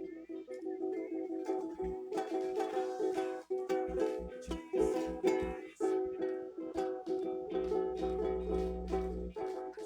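Strummed acoustic string instrument playing repeated chords, with low thumps under the strums in the middle and a short low rumble near the end.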